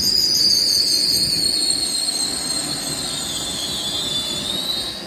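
High-pitched squeal from an LNER Class 801 Azuma electric train moving slowly along the platform, over a low rumble of the train. The squeal holds one steady tone, dips slightly in pitch near the end and then stops.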